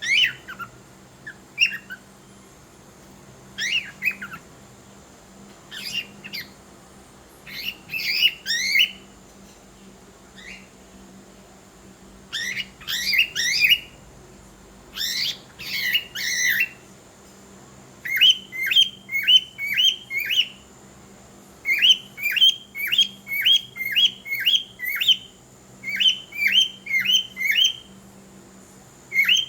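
Cockatiel chirping and whistling: scattered clusters of short sweeping calls, then, from about two-thirds of the way in, runs of quick repeated chirps at about three a second, broken by short pauses.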